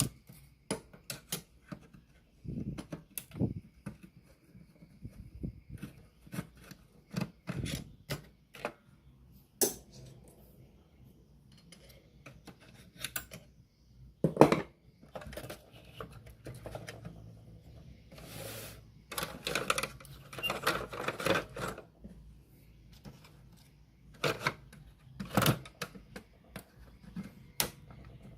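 Tools and small parts being handled at a workbench while a radio cassette player is taken apart: irregular clicks, taps and light knocks, with a short stretch of scraping and rattling about two-thirds of the way through.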